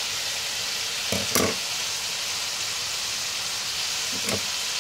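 Chicken sizzling in a pan on the stove, a steady frying hiss. Two short louder noises break in, one about a second in and one near the end.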